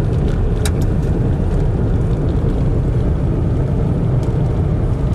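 A motor vehicle driving: a steady low rumble of engine and road noise, with a few faint ticks.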